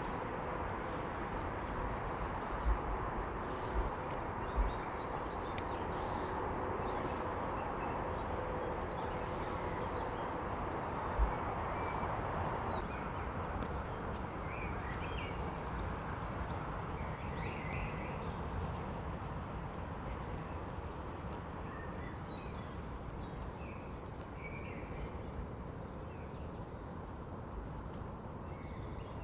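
Outdoor evening ambience: a steady rushing background with scattered bird calls, plus a few low thumps in the first few seconds.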